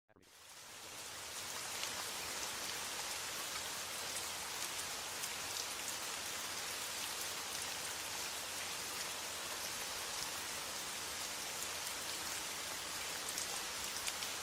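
Steady rain falling, with faint scattered drop ticks; it fades in over the first second or two and then holds level.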